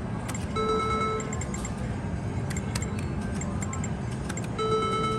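Casino floor din with electronic slot machine tones: a chord of steady beeps held for about half a second, twice, about half a second in and again near the end, among scattered sharp clicks.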